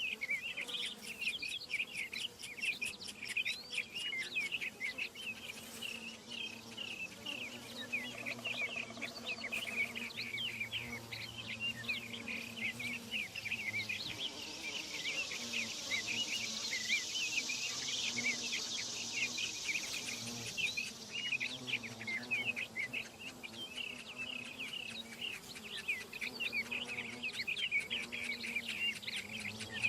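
Outdoor nature ambience: many small birds chirping rapidly and continuously, with a high insect drone swelling up in the middle and fading again.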